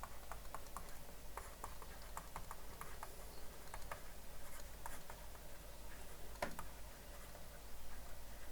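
Faint writing sounds: irregular light taps and scratches of writing by hand, a few a second, over a quiet room hiss.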